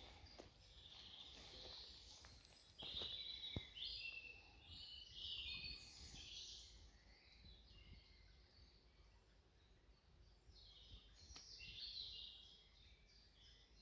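Faint woodland songbirds singing, several overlapping chirping and warbling phrases, busiest in the first half and again near the end. A few light clicks are heard.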